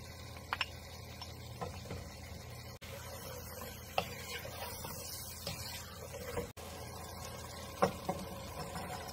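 Chicken and onions frying in a pan with a soft, steady sizzle, broken by a few sharp taps and scrapes of a wooden spoon against the pan. Near the end comes a louder clatter as sliced mushrooms are tipped in from a bowl.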